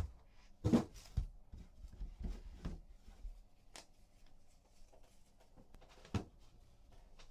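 Trading cards and their pack wrappers being handled: scattered soft taps and rustles, the loudest just under a second in and another about six seconds in.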